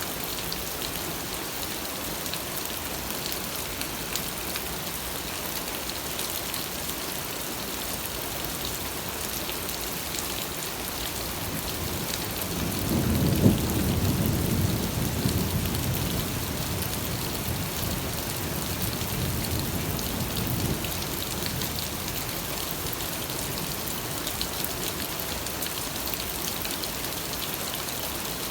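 Steady rain with a dense patter of drops, and a roll of thunder that builds about twelve seconds in, peaks soon after and rumbles away over the next several seconds.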